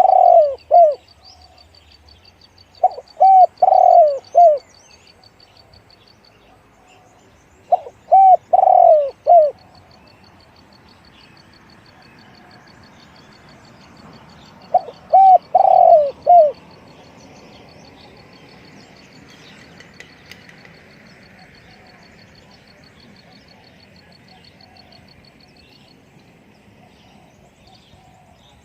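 Spotted dove cooing: four phrases of a few coo notes each, spaced several seconds apart, the last about halfway through. A faint, rapid high ticking runs in the background.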